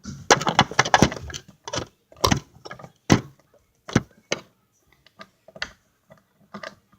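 Digging tools scraping and knocking in kinetic sand: a quick run of irregular clicks and scrapes that thins out into scattered taps later on.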